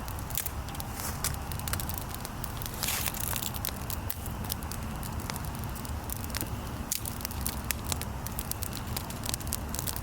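Campfire of rain-soaked wood crackling with frequent irregular snaps and pops, over a steady low rumble of wind on the microphone.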